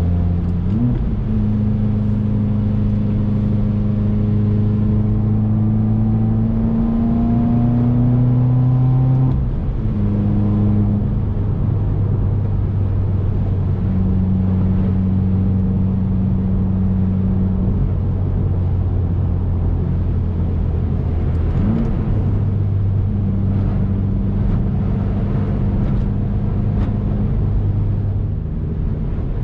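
Turbocharged flat-four engine of a Subaru WRX running steadily under way, over a constant haze of road noise. Its pitch climbs slowly for a few seconds, then drops suddenly about a third of the way in, with brief blips at about one second and again about three quarters through.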